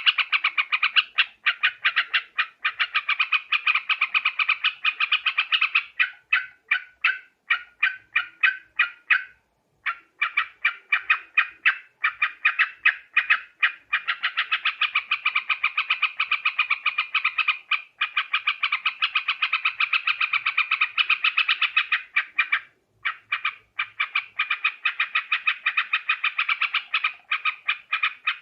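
Yellow-vented bulbul (trucuk) calls: a fast, continuous chatter of short repeated notes, played as a lure recording for bird trapping. The chatter breaks off briefly twice, about a third of the way in and again past the three-quarter mark.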